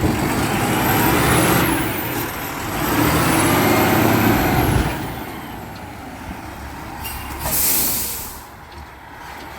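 Garbage truck working, its sound swelling in two long stretches with rising and falling whines, then a short hiss of air near eight seconds in, typical of an air brake.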